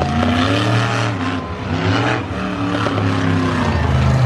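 Monster truck engine revving in a series of rises and falls in pitch.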